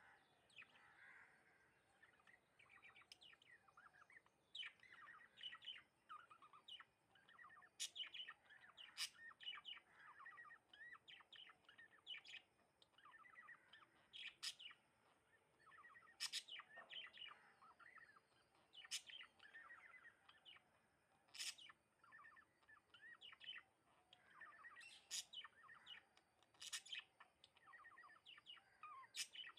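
Sparrows chirping: a faint, continuous run of short, overlapping chirps with sharper high notes every second or two.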